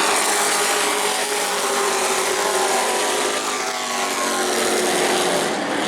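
Engines of several race trucks running at speed around the oval, several pitches sliding up and down as the trucks go by.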